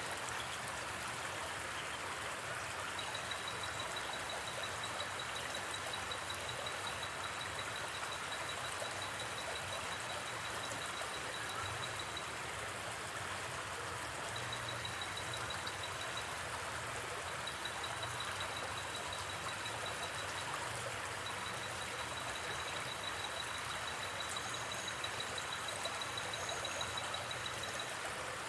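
Steady rush of a flowing river, with a high, evenly pulsing insect trill that starts and stops several times over it.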